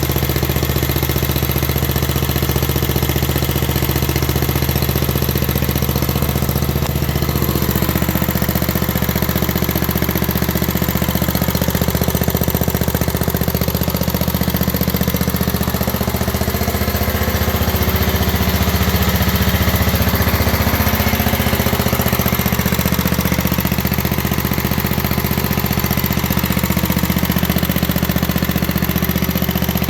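7 hp Briggs & Stratton single-cylinder engine on a 1967 Unico garden tractor running steadily, freshly started with the choke on after 27 years sitting.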